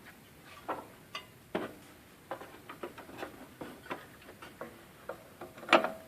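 Irregular sharp metal clicks and taps of hand tools on the fan clutch's nuts and studs, about a dozen at uneven spacing, the loudest near the end.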